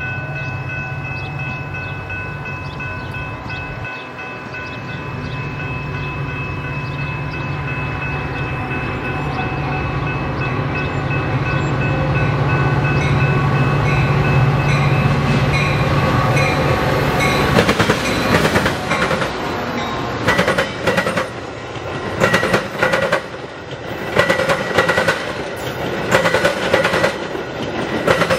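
Railroad crossing bell ringing steadily while a Metra diesel-hauled commuter train approaches, growing louder until the locomotive passes about two-thirds of the way in. Then the bilevel passenger cars roll by with a rhythmic clickety-clack of wheels over the rail joints.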